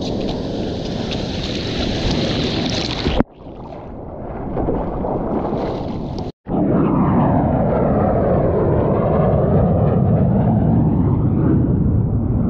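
Wind and water noise on the microphone, broken by two abrupt cuts. About halfway in, a low-flying jet aircraft roars past overhead, its steady loud rush carrying a slowly sweeping hiss that falls and rises as it passes.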